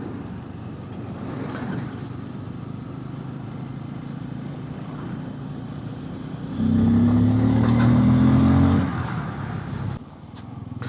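Bajaj Pulsar N250's single-cylinder engine running on the road, with road and wind noise. About two-thirds of the way through, a much louder, steady engine note comes in for about two seconds, then fades. The level drops sharply near the end.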